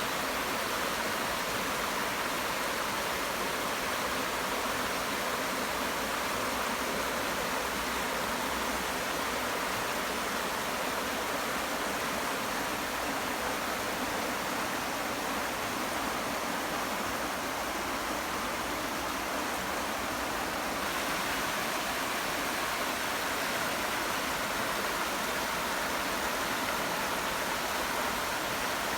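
River water rushing over shallow rapids: a steady, even rush of flowing water.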